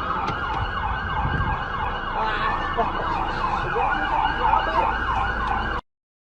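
Emergency-vehicle siren: a slow rise that switches into a fast yelp, sweeping up and down about four times a second, over low road rumble. It cuts off suddenly near the end.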